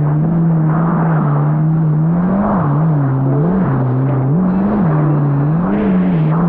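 Supercharged four-cylinder engine of a Yamaha GP1800R SVHO jet ski running at speed. Its pitch rises and falls several times in the second half as the revs swing up and down.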